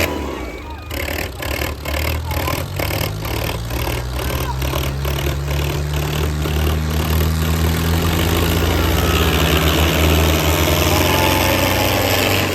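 Tractor diesel engine running hard under load in a pulling contest, its pitch climbing over a few seconds and then holding steady.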